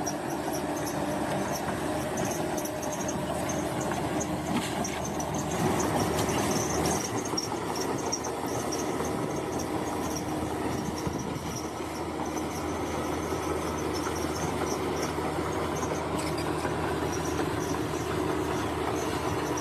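Crawler bulldozer working: engine running under load with its steel tracks squealing and clanking, a little louder about six seconds in.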